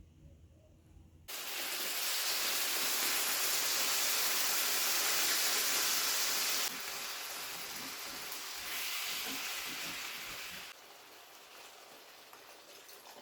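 Food sizzling in a cooking pan, a loud steady hiss that starts suddenly about a second in and drops in level abruptly a few times, as between cut-together clips.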